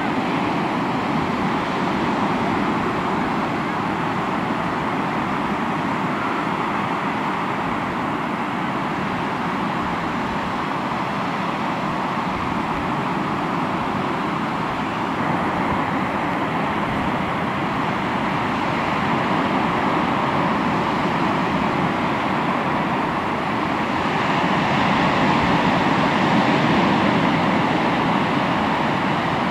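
Sea waves washing onto the shore: a continuous surf noise that swells and eases slowly, growing louder for a few seconds about three-quarters of the way through.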